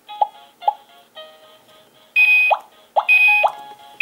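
Electronic beeps and a short synthesized jingle from a Minnie Mouse toy tablet's small speaker: a few quiet blips, then about halfway through a louder run of steady tones with three quick upward chirps.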